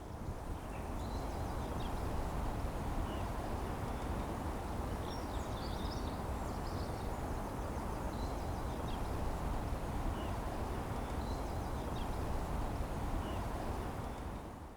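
Wind rumbling on the microphone over a steady hiss, with faint short bird calls scattered through it.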